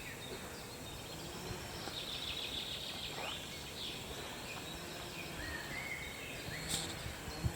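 Distant chainsaws running in the forest, heard as a faint, steady background, with a few birds calling over it.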